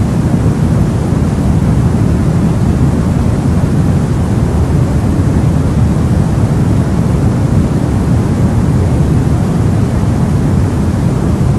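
Steady sleep-aid noise for babies, an even unchanging hiss weighted toward the low end so it sounds like a deep rumble rather than a bright hiss.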